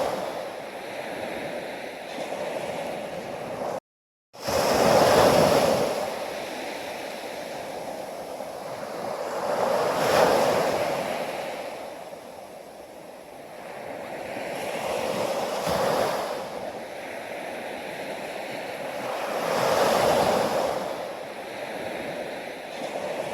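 Sea waves breaking on a shore, each one swelling and washing back roughly every five seconds, with a brief dropout to silence about four seconds in.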